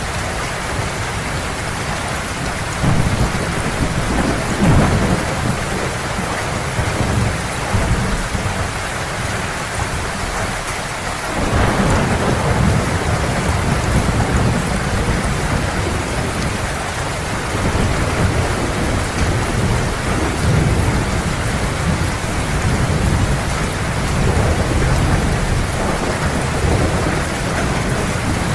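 Heavy rain falling steadily, with rolls of thunder rumbling underneath: one begins about three seconds in and a stronger one about eleven seconds in, followed by further low rumbles.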